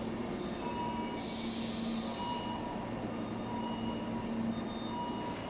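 Tobu electric train running at the station platform: a steady rumble with a held low hum and tones that come and go, and a short burst of hiss about a second in.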